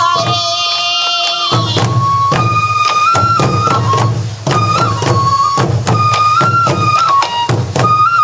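Sansa odori festival music: a bamboo fue flute plays a held melody that steps between a few notes, over rapid taiko drum strokes. A singing voice joins in over the first second and a half.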